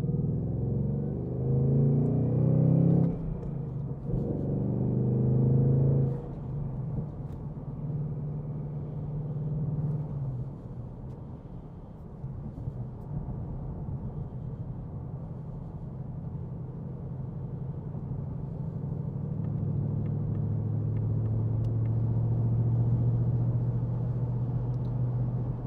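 2026 Ford Mustang GT's 5.0-litre V8 with the active valve exhaust open in sport mode, pulling hard through a gear, dipping briefly for a manual upshift about three seconds in, then pulling again. About six seconds in the driver lifts off, and the engine settles into a steady cruising drone that swells slightly near the end.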